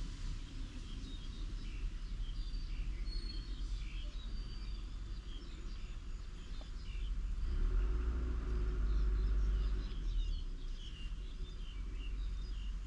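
Small birds chirping repeatedly over a steady low rumble, which grows louder for a couple of seconds past the middle.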